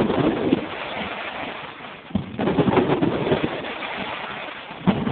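Fireworks crackling and popping in a dense, continuous stream of small bangs, thinning briefly about two seconds in before picking up again.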